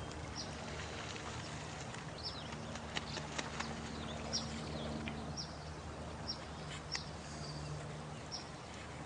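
Night nature soundscape: a steady rush of running water with short, high, falling chirps about once a second and scattered sharp clicks, over a faint low steady drone.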